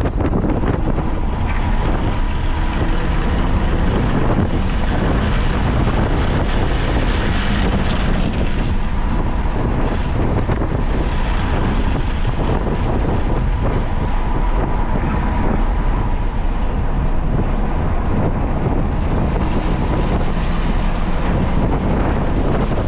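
A car lapping a racetrack at speed, heard from on board: steady engine and road noise mixed with wind rushing over the microphone.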